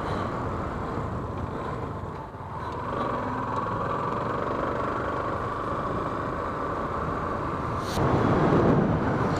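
Steady motor-vehicle engine and traffic noise, growing louder about eight seconds in.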